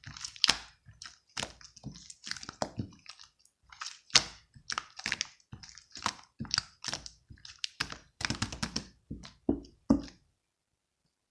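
Marbled slime being squished and pressed by hand, making a run of irregular wet clicks and pops from trapped air, several a second, that stops near the end.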